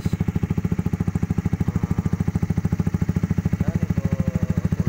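Honda CBR150R's single-cylinder four-stroke engine idling through an aftermarket R9 racing exhaust: a steady, even putter of about a dozen pulses a second.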